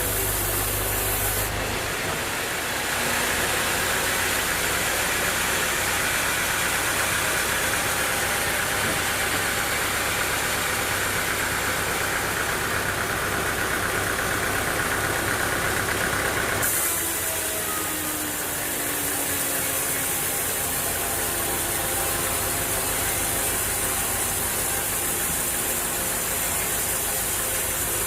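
Sawmill machinery running steadily: an engine with a loud hiss over it. The sound changes abruptly about a second and a half in and again a little past halfway.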